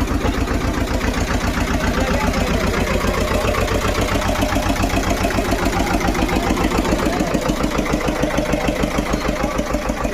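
Tractor engine idling with a steady, fast, even chugging.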